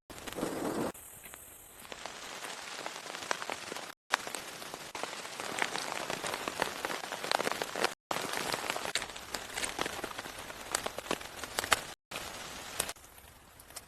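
Steady rain falling, a dense patter of many small sharp drop ticks. The sound drops out for an instant three times, about every four seconds.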